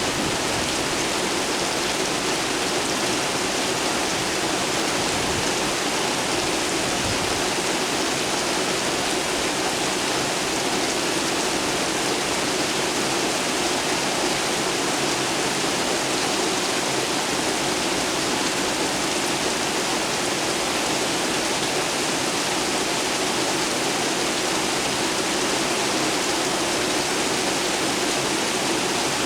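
Steady rain falling in a city downpour, an even hiss with no thunder.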